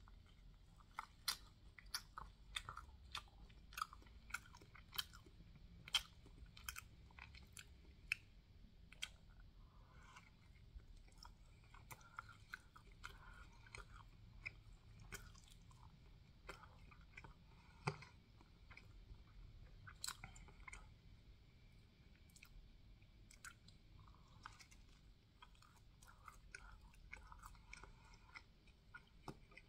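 Quiet, close-miked chewing and biting of a waffle sandwich, with many sharp mouth clicks, thickest in the first several seconds.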